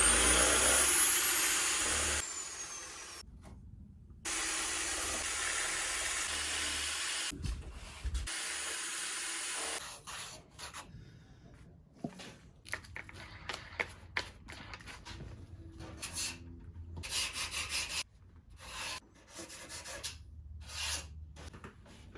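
Handheld power sander on surfboard foam: it spins up with a rising whine and runs steadily, then winds down about two seconds in. It is started again twice for a few seconds each. From about ten seconds in come short, irregular rubbing and scraping strokes.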